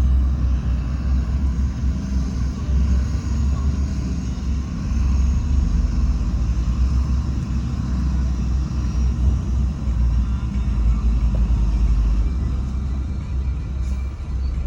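Heavy diesel earthmoving machine engine running steadily with a deep low rumble.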